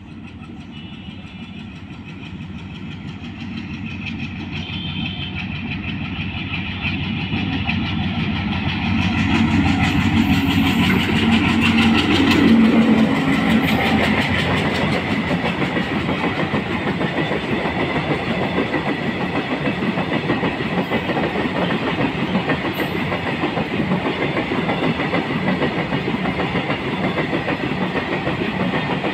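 A WDM-3D diesel-electric locomotive's 16-cylinder ALCO engine approaches and passes close by, growing steadily louder to a peak about twelve seconds in. Open-top steel freight wagons then roll past with steady wheel and rail noise and the clickety-clack of wheels over rail joints.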